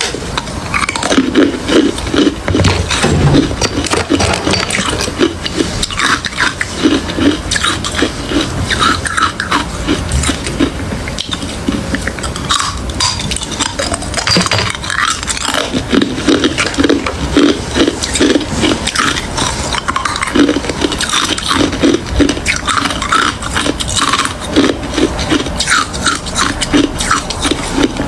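Close-up chewing of crushed ice in the mouth, a dense run of crunches and cracks coming in quick bursts.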